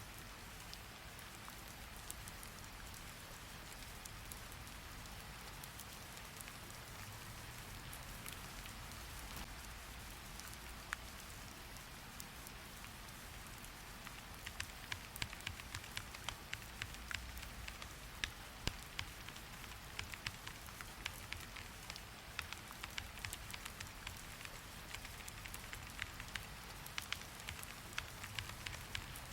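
Steady hiss of rain falling. From about halfway, irregular quick clicks of typing on a computer keyboard join it.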